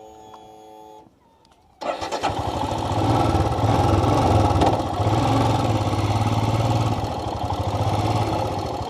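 Royal Enfield motorcycle engine starting abruptly about two seconds in, then running steadily with closely spaced firing pulses. A faint held tone with overtones sounds in the first second.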